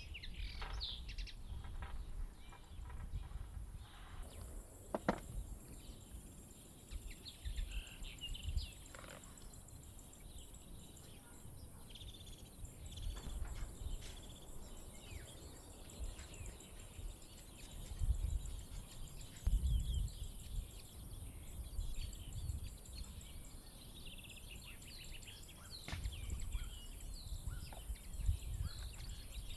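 Small birds chirping and trilling on and off, with irregular low rumbles underneath that are loudest about two-thirds of the way through.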